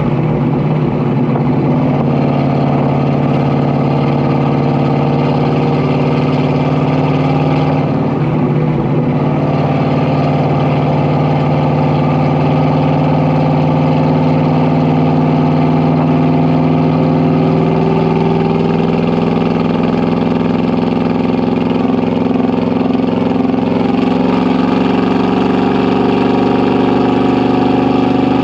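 Exhaust of a 1980 Ford 400 V8 while driving at a steady cruise, a continuous low engine note. The note wavers briefly about eight seconds in, then holds steady and creeps slightly higher in pitch later on.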